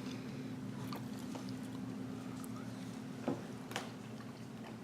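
Steady low hum of room or appliance noise, with two faint short clicks a little past three seconds in while a man eats a forkful of chicken and rice.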